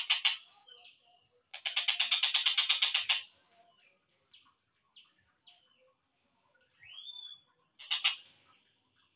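Collared kingfisher calls played back slowed down. A burst of rapid, harsh, evenly repeated notes, about ten a second, lasts about a second and a half. It is followed by scattered short chirps and a rising whistle, then a brief second burst near the end.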